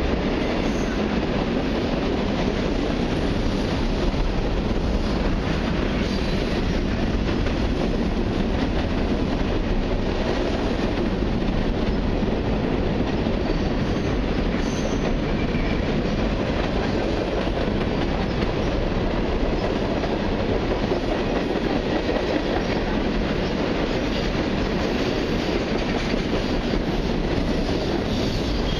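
Long mixed freight train rolling past steadily, its cars' wheels running over the rails.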